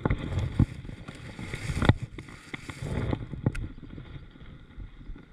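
Knocks and bumps on a fishing kayak, with a hiss that stops about three seconds in.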